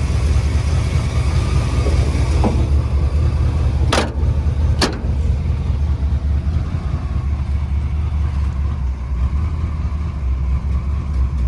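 Chevy C10 race truck's engine running steadily on open headers with no exhaust, a loud, deep, even rumble. Two sharp clicks about four seconds in.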